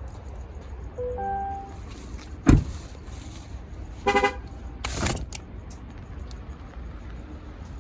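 A vehicle horn gives a short chirp in two quick pulses about four seconds in. Before it there is a soft two-note chime and a single heavy thump, and a brief rushing burst follows.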